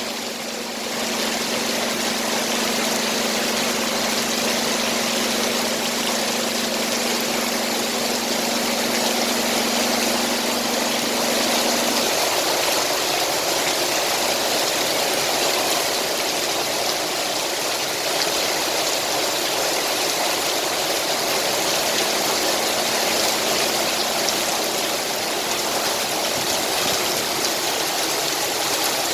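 Heavy rain pouring down steadily, with a steady low hum underneath that drops away about twelve seconds in.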